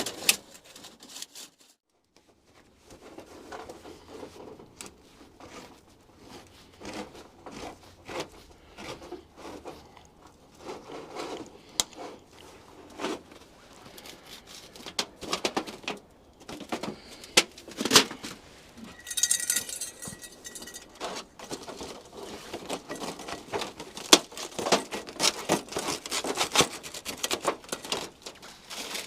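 Irregular rustling, crinkling and small knocks of things being handled, with a brief scraping rasp about nineteen seconds in.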